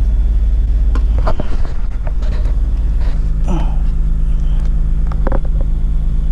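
Toyota Sienna's 3.0-litre V6 idling steadily, with a few light clicks and knocks over it.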